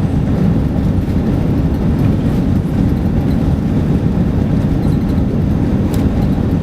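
Airbus A380 jet engines at takeoff power: a loud, steady low rumble with no rise or fall.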